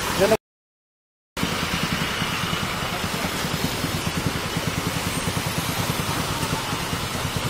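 Motorcycle engine idling close by with a steady, even pulse. The sound drops out to dead silence for about a second just after the start.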